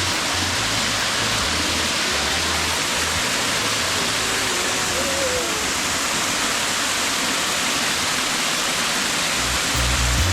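Steady loud rushing water, with music and a stepping bassline underneath.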